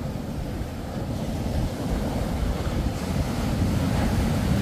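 Surf breaking and washing onto a beach, with wind buffeting the microphone.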